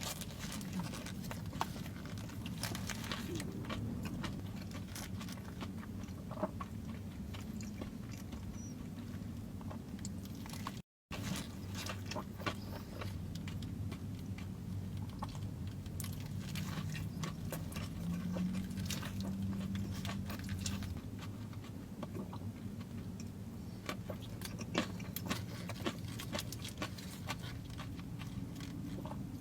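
Close-miked eating: wet chewing with scattered crunches and sharp bites, over a low steady hum. The sound drops out briefly about eleven seconds in.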